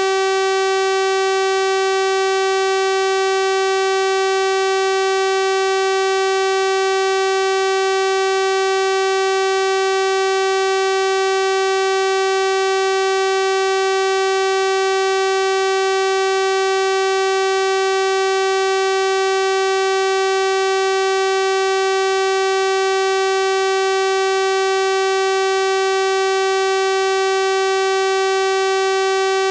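A steady electronic 384 Hz sawtooth-wave test tone, a bright buzzing pitch rich in overtones, holding constant without any change.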